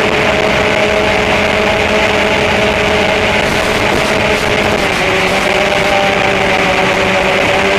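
Small drone's electric motors and propellers buzzing steadily in flight over a broad hiss; the pitch dips slightly about five seconds in.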